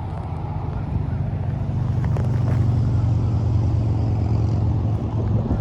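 An engine running steadily, a low hum that grows a little louder through the middle.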